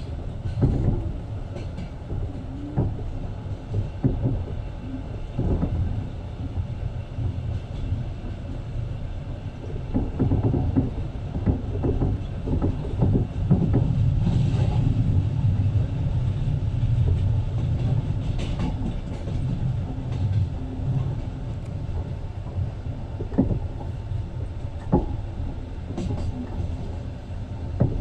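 Passenger train running on the rails, heard from inside the carriage: a steady low rumble with scattered knocks and rattles, a little louder for several seconds in the middle.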